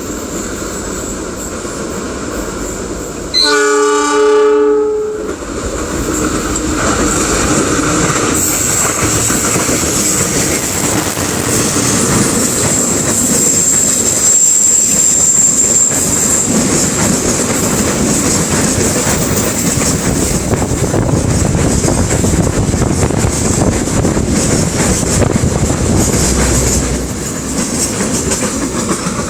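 Train horn sounding one blast of about a second and a half a few seconds in, followed by the steady noise of the train running past for the rest of the time.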